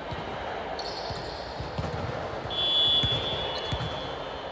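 Volleyball game sounds on an indoor court: thuds of the ball and players' feet on the floor, a short squeak about a second in, and a whistle blown once about two and a half seconds in, loud and held for under a second before dying away.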